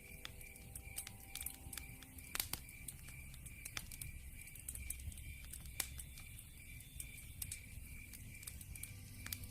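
Wood fire in a fireplace crackling, with sharp pops and snaps from the burning logs over a low rumble. Behind it, crickets chirp in a steady high pulse, about three times a second.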